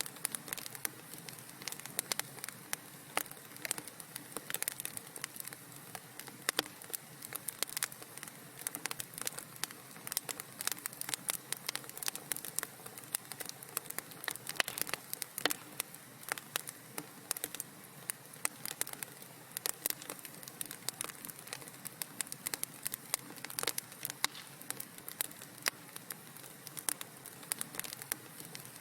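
Fire crackling in a fireplace: a steady hiss under constant irregular pops and snaps.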